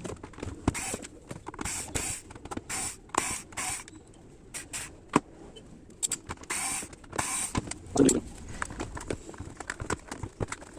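Irregular clicks, knocks and short scraping sounds of hand work on a Nakamichi SoundSpace 5 powered bookshelf speaker as its amplifier board is taken out, with a heavier knock about eight seconds in.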